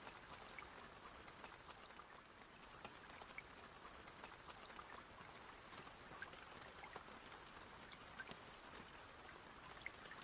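Faint steady rain, a soft hiss dotted with scattered little drop ticks.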